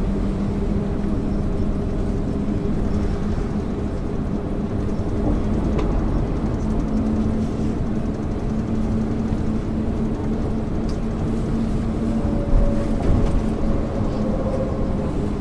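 MAN ÜL 353 diesel bus under way, heard from inside: a steady engine and drivetrain drone with road rumble. A faint higher whine joins in about twelve seconds in.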